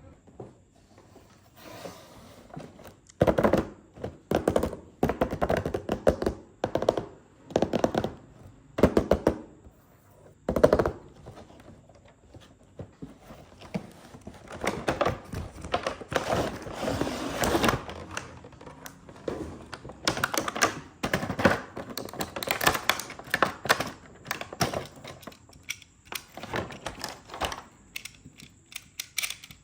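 Toy cars and their packaging being handled: an irregular run of clicks, taps and knocks, a few of them much louder than the rest.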